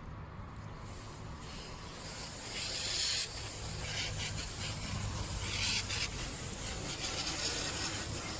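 Rough scraping and rubbing of a trowel or similar tool working fresh concrete and stone, coming in louder stretches, with a steady low hum underneath.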